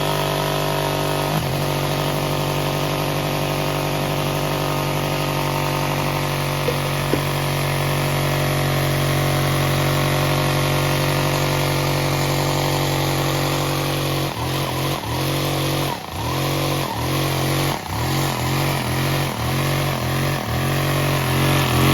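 Motor of a custom Lego Technic truck running with a steady hum. From about two-thirds of the way in, its pitch dips and recovers roughly twice a second, a pulsing that suggests varying load.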